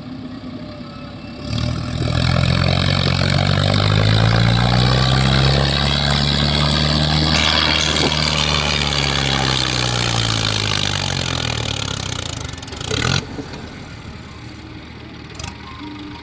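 Heavy diesel engine revving up hard about a second and a half in, its pitch climbing slowly and then sinking back over about ten seconds as it works under load. A loud clank comes near the end, and then the engine settles to a quieter run.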